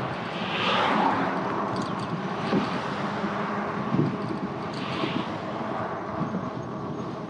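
Street traffic noise picked up while riding, with vehicles swelling past about a second in and again near five seconds, over a steady low hum and rushing air.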